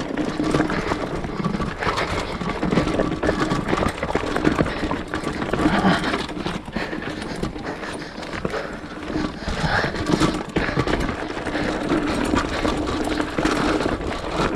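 Continuous rattling and knocking of a ride over a rough, rocky trail, with a steady hum running under the clatter.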